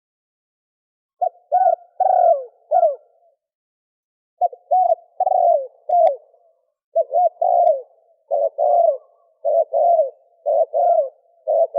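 Male spotted dove cooing. After about a second of silence it gives short phrases of low coo notes that curve downward in pitch, one phrase after another with brief gaps.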